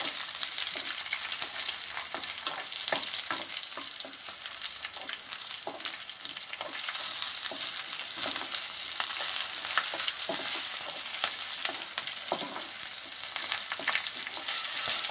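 Chopped garlic and green chillies sizzling in hot oil with mustard seeds in a metal kadhai, lightly browning for a tadka. A spatula scrapes and taps against the pan as they are stirred, giving short clicks over the steady sizzle.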